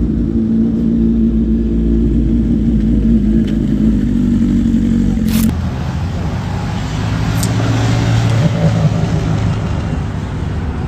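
Kawasaki ZX-10R's inline-four engine through an SC Project aftermarket exhaust, running at a steady pitch. About five seconds in the sound changes abruptly, and the engine note then rises and falls as it revs.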